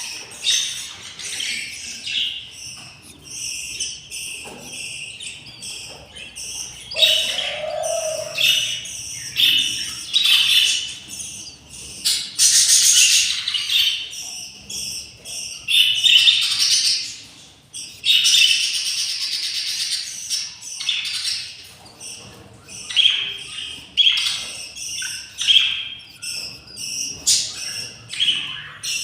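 Budgerigars chirping and chattering in many short, high calls throughout, with a few louder, raspy stretches.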